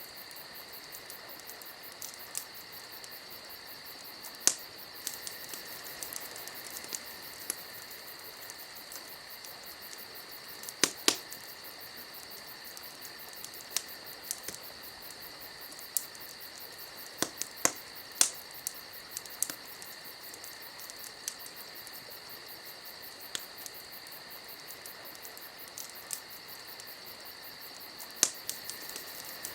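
Campfire wood crackling: irregular sharp pops and snaps, a few of them much louder, over a steady high-pitched drone.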